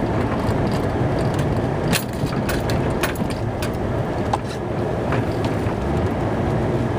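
Snow-plow truck running, heard from inside the cab as a steady engine and road rumble, with several sharp clicks and knocks about two to four seconds in.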